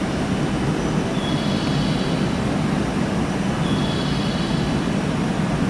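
A train running along the platform with a steady rumble, and faint high wheel squeals twice.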